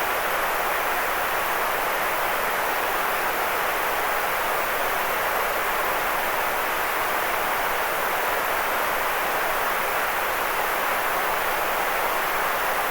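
Continuous white noise: a steady, unchanging hiss, strongest in the middle range and thinner in the deep lows and the highest highs.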